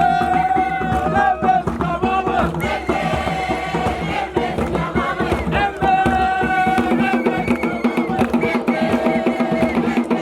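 A group of voices singing a chant together over a steady percussion beat.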